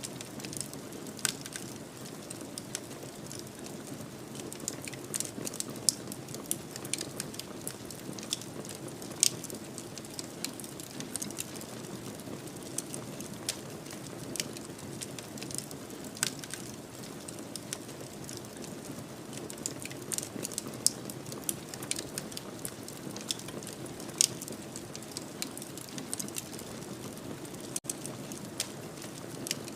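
Fire in a fireplace crackling: irregular sharp pops and snaps over a steady low rush of the flames.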